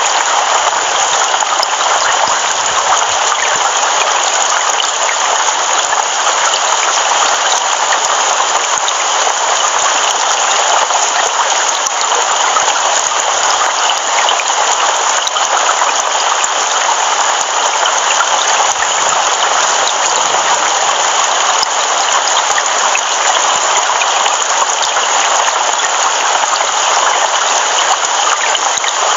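Heavy rain falling steadily, a dense, even hiss of drops with no breaks and no thunder.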